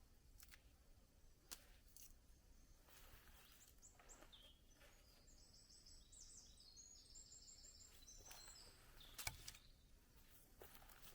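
A small songbird sings a phrase of quick, repeated high notes for about four seconds, starting about halfway in, over faint forest ambience with scattered soft clicks and one sharper tap.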